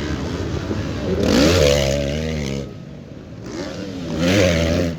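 Motocross bike engines revving hard as the bikes accelerate past, twice: one rising about a second in and dropping away under three seconds in, another climbing to a peak near the end.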